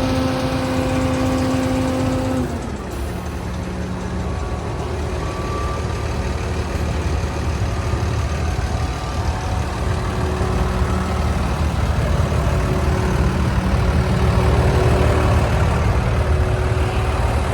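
Fuel truck engine running with the fuel pump system engaged. A steady hum drops in pitch and cuts out about two and a half seconds in. A lower, steady engine rumble follows and grows gradually louder.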